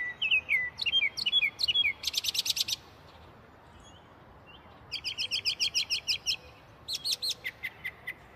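Songbirds singing: quick high chirps, a fast run of repeated notes about two seconds in and another around five seconds, then a few quick falling notes near the end.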